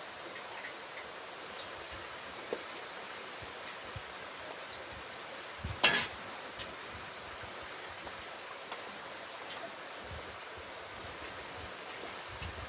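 Insects trilling steadily at a high pitch over the even rush of a valley stream, with one sharp knock about six seconds in.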